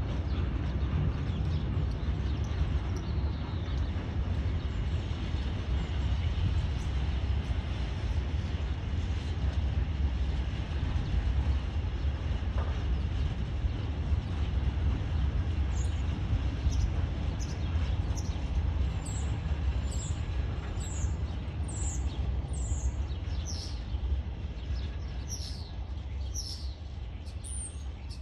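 Container wagons of an intermodal freight train rolling past on the rails with a steady low rumble that eases off near the end as the last wagons go by. Through the second half a bird sings short, quickly falling chirps about once a second over it.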